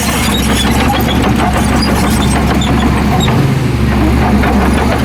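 Heavy diesel earthmoving machinery running steadily, with irregular knocks and clatter over the engine.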